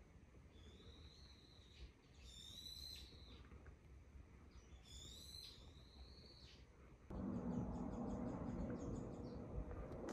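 A bird calls outdoors: two similar drawn-out calls a couple of seconds apart, with a shorter call before them and faint quick chirps later. About seven seconds in, a louder steady rushing noise with a low hum starts suddenly.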